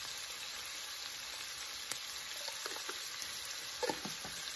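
Pork sausage and chopped celery, onion and green onion frying in a pan, a steady sizzle, with a few faint taps near the end.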